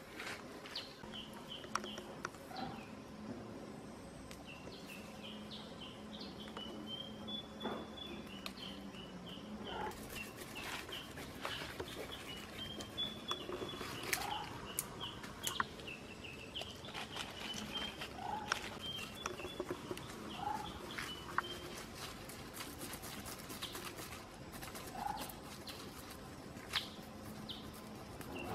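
Wild birds chirping and calling: many quick high chirps throughout and a lower, short rising call every few seconds, with scattered sharp clicks and crackles.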